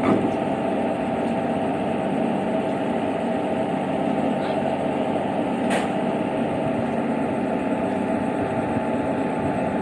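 Railway locomotive standing and running, a steady mechanical drone with a hum of several held tones. A brief sharp click sounds about six seconds in.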